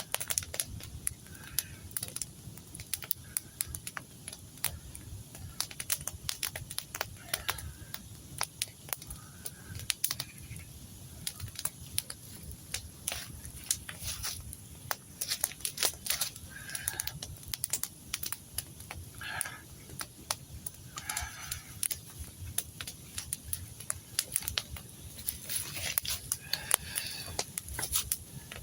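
Campfire crackling, with a steady run of sharp irregular pops and snaps. A few short bird calls sound now and then.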